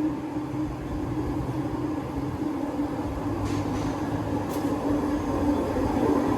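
Train's diesel engine running steadily, a low rumble with a constant hum, with two faint short hisses around the middle.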